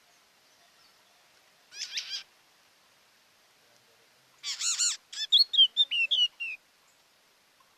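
A songbird singing: a short rapid trill about two seconds in, then a louder trill followed by a quick run of short, clear whistled notes, over faint background hiss.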